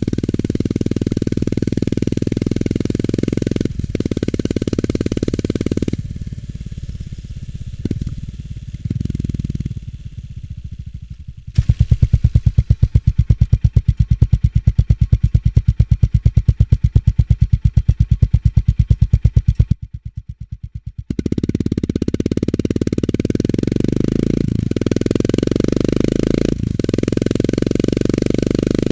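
Exhaust of a Honda GB350 S single-cylinder engine through its stock muffler: running steadily under way, easing off, then idling with an even, slow thump of exhaust pulses for several seconds. It then pulls away and runs steadily again.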